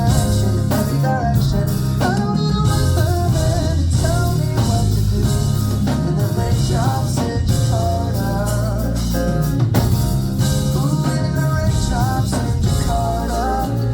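Live band music: drum kit, bass and guitar playing steadily under a wavering, sliding lead melody, with no sung words.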